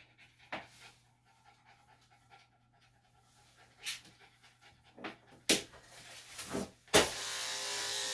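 A dog panting softly, with a few sharp clicks and knocks of handling. About seven seconds in, electric dog-grooming clippers switch on with a click and run with a steady buzz.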